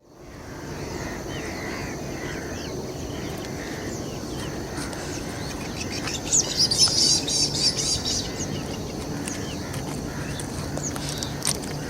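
Small birds chirping over a steady outdoor background hiss, with a burst of fast, high twittering song about six seconds in that lasts a couple of seconds.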